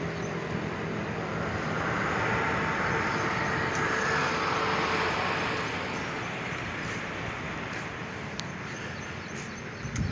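Road traffic from the town below: a steady wash of traffic noise, with one vehicle passing that grows louder about two seconds in and fades away after about six seconds.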